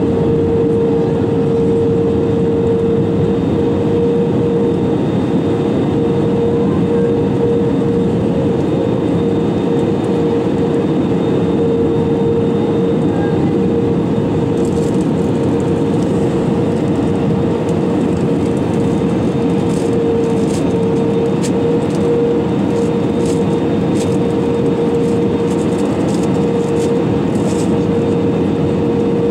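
Steady engine and airflow noise heard inside an Airbus A320-200's cabin, with a steady hum running through it. From about halfway, scattered sharp crackles join in.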